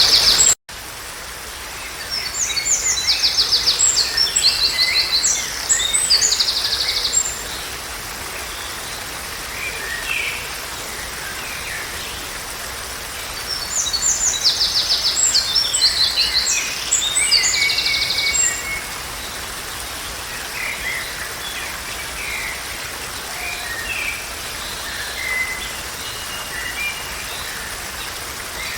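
Songbirds singing: two bouts of rapid, high trilled phrases, one starting about two seconds in and another around the middle, with scattered shorter chirps in between over a steady soft background hiss.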